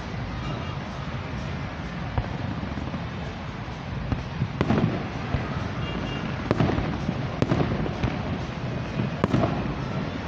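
Fireworks display going off: a constant rumble of bursts, with sharp bangs and crackles coming thick and fast from about halfway through.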